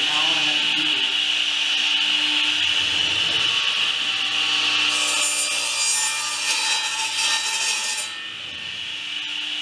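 Wood rubbing and scraping against wood during hive building, with a louder, brighter scrape lasting about three seconds past the middle, over a steady high hiss.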